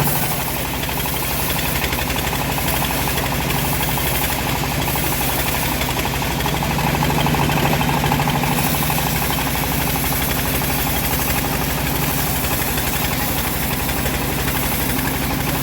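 Homemade engine-driven band sawmill running steadily, a continuous engine drone with a slight dip in level about a second in.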